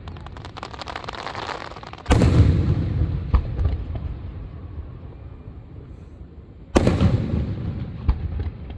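Fireworks going off. A dense crackle of many small pops in the first two seconds, then a loud boom about two seconds in that rumbles away. A few sharp pops follow, then a second loud boom near the end, trailing off into rumble.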